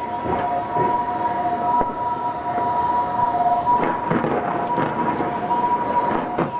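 Crowd noise from a large outdoor gathering, with scattered short sounds. Under it runs a steady two-pitched high tone; the lower pitch drops out briefly a few times.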